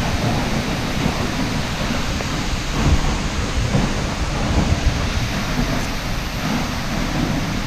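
Waterfall rushing: a steady roar of falling water with a heavy, uneven low rumble beneath it.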